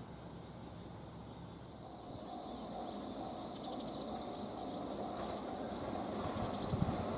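Insects chirping in a fast, even pulse from about two seconds in, over the low rumble of an approaching train that grows louder toward the end, with a few knocks near the end.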